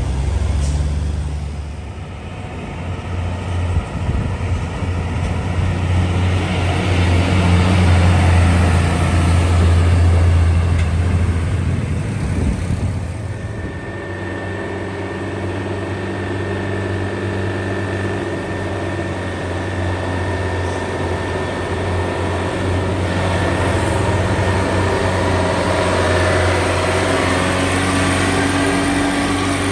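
Heavy diesel trucks driving past one after another. A deep engine drone builds to its loudest around ten seconds in. About thirteen seconds in it gives way to another engine running steadily with a high whine over it.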